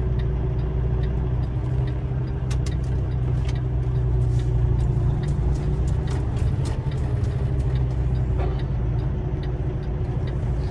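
Semi-truck diesel engine running steadily at low speed, heard from inside the cab as the rig maneuvers to back into a loading dock, with scattered light clicks.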